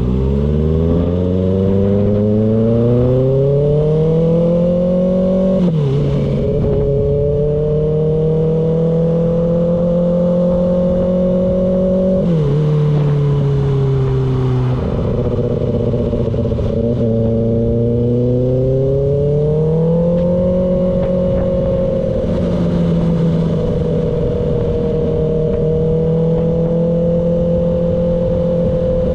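Kawasaki ZX-6R's inline-four engine under way. It revs up for about five seconds, its pitch drops suddenly at a gear change, then it holds steady revs. It drops again twice in the middle, climbs once more, and settles at steady cruising revs near the end.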